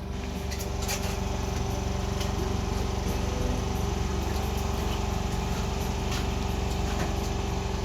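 Boat engine running steadily at an even speed, a constant hum with no change in pitch.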